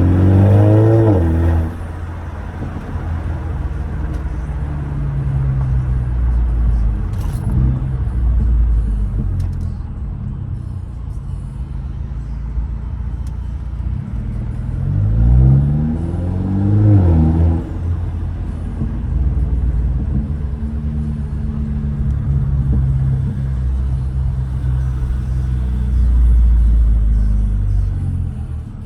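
2015 Mercedes CLA 250 turbocharged 2.0-litre four-cylinder, straight-piped with an aftermarket intake, cruising with a steady low exhaust drone. The revs climb right at the start, then climb twice in quick succession about halfway through before settling back.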